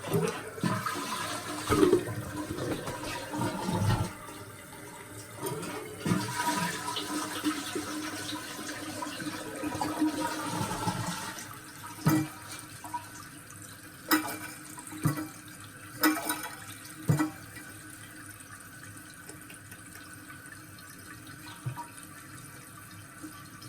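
Toilet flushing and its tank refilling: water rushes for about the first twelve seconds, then gives way to a quieter steady hiss, with several sharp knocks in the middle. The flapper is not staying up for a full flush, which the owner puts down to the handle arm's short throw.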